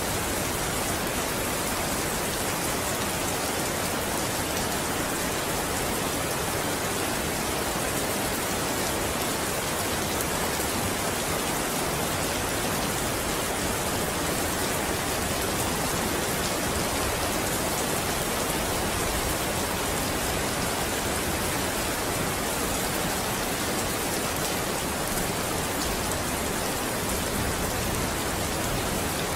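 Steady rain: an even hiss of many dense drops, unchanging throughout.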